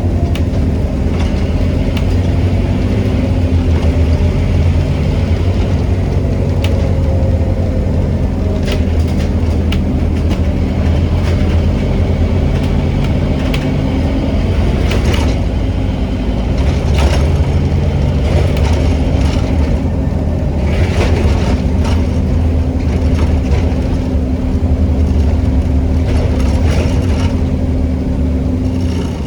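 Scania N270UD OmniCity double-decker bus heard from on board: its five-cylinder diesel engine running steadily under way. Sharp clicks and rattles from the bus body come and go through the middle.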